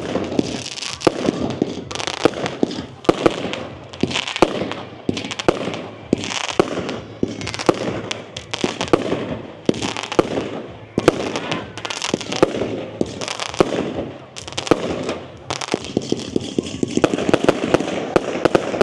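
Fireworks going off one after another, a dense run of sharp bangs and crackles.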